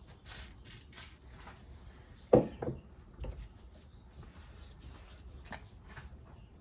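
Small parts and tools handled on a workbench during a motorcycle fork rebuild: a run of quick light clicks and rubs, one louder knock about two seconds in, then a few faint ticks.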